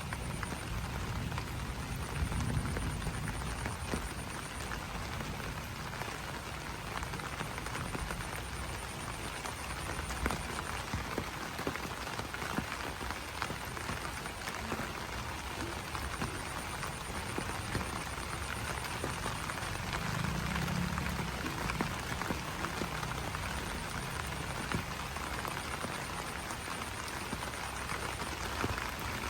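Steady rain pattering densely on broad banana leaves, with a faint high pulsing trill that comes and goes in stretches.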